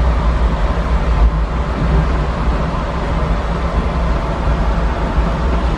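Steady rumble and hiss inside an air-conditioned train compartment, with a low hum underneath and no change in level.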